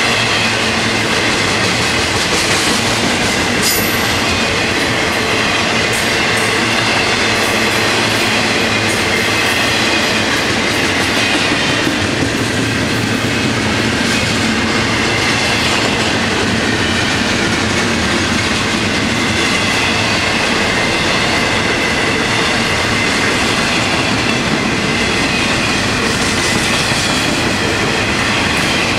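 Freight train of double-stack intermodal container cars rolling past, a steady loud rumble and clatter of wheels on rail. Steady high-pitched wheel squeal rings over it throughout.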